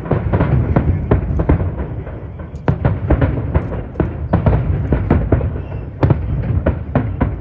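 Aerial fireworks bursting in rapid volleys: many sharp bangs in quick runs over a continuous low rumble, with strong wind on the microphone.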